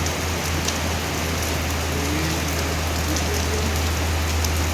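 Steady heavy rain falling, a dense hiss with scattered sharp drop ticks over a constant low rumble.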